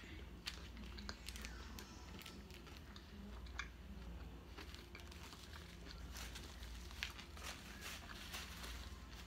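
Faint eating sounds: a person chewing a gyro and fries, with scattered small clicks and crinkles as the aluminium foil wrapper is handled, over a low steady hum.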